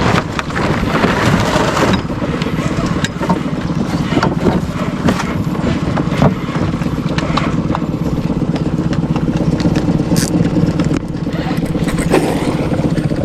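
Boat outboard motor running steadily, with a few scattered knocks and clicks.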